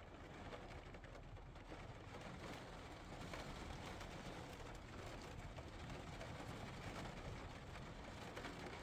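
Heavy rain falling steadily on the roof of a van, heard from inside: a continuous hiss of patter.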